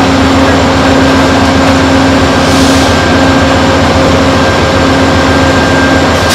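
Steady drone of an idling Amtrak passenger train standing at the platform, with a constant hum and a short hiss of air about two and a half seconds in.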